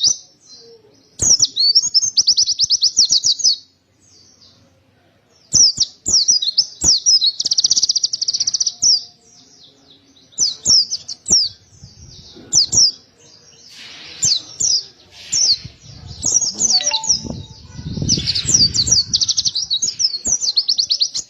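White-eye (pleci) singing: bursts of high, fast chattering notes and rapid trills, broken by short pauses.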